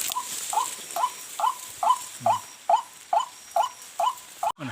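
An animal's short call repeated steadily about twice a second, each note hooking up and then down in pitch. Near the end the sound cuts out briefly and a sudden sharp noise follows.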